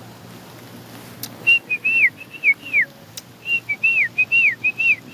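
A person whistling a calling signal to summon animals: short clear high notes, each level note followed by a falling slide, repeated in two runs with a brief pause between them.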